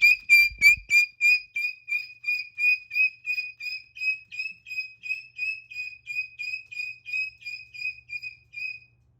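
A rapid, even string of identical high-pitched electronic beeps, about three a second, at one unchanging pitch. They grow gradually fainter and stop shortly before the end.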